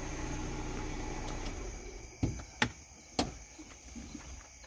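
Car engine idling, then switched off about two seconds in, the hum dying away. A few sharp clicks and knocks follow, as the key is turned and the driver starts to get out.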